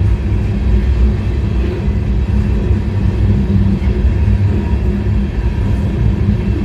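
Steady low rumble of a moving freight car, heard riding on board: wheels rolling on the rails.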